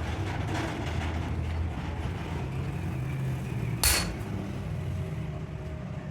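A single hard hammer blow on steel about two-thirds of the way in, with a short metallic ring, over a steady low hum.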